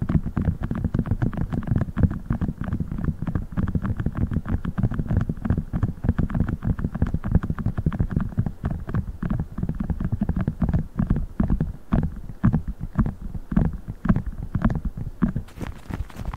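Fast, continuous tapping on a soft silicone funnel, dense dull thuds several times a second. Near the end the sound changes as a different, hissier sound takes over.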